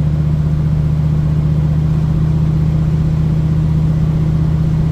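1972 Ford Mustang Mach 1's V8, fitted with a Crane 2040 cam and breathing through a single 3-inch exhaust with a Black Widow Venom muffler, running at a steady, even pitch, as at a constant cruise.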